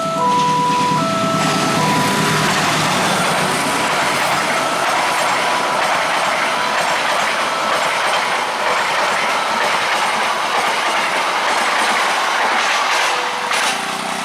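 A train passing over a level crossing, its wheels rumbling and clacking on the rails and easing near the end. Underneath it, the crossing's electronic warning chime keeps stepping through a few notes.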